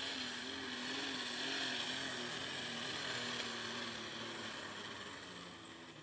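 Unlimited super stock pulling tractor's engine running under load down the track, its pitch wavering, swelling and then fading away toward the end. The motor is not holding up or reaching high RPM.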